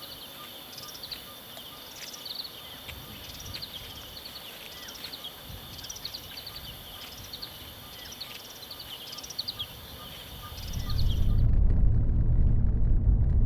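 Outdoor forest ambience: repeated short, high bird calls in little groups over a steady high insect buzz and a faint regular ticking. About eleven seconds in this stops and a much louder, steady low rumble takes over.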